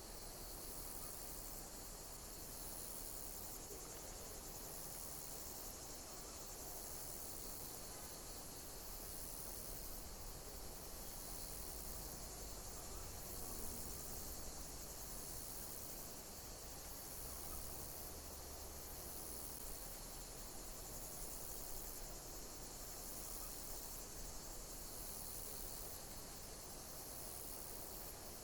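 Insects chirping in a steady, high-pitched chorus that pulses in a regular repeating pattern every second or two.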